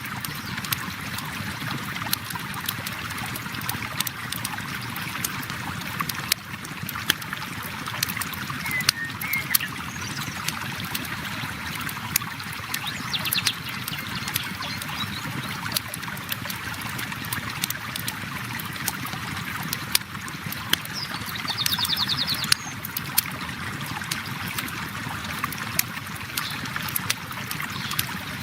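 River water flowing steadily, with a campfire crackling over it in frequent sharp pops and snaps.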